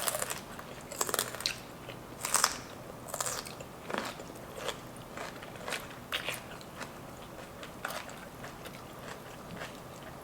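Close-up crunching of raw celery being bitten and chewed, a string of sharp, wet crunches that grow softer and more spaced out as the chewing goes on.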